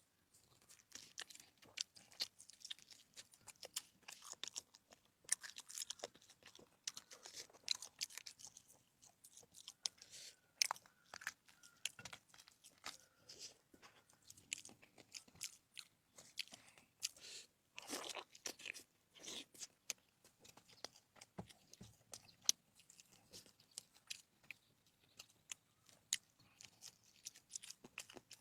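Close-miked eating of crunchy food: a person biting and chewing, with many sharp, irregular crunches and wet mouth sounds throughout.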